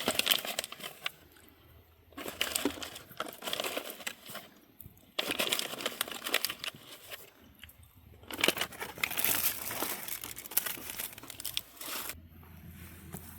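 MRE plastic packaging being handled and crinkled in four bursts, with short pauses between.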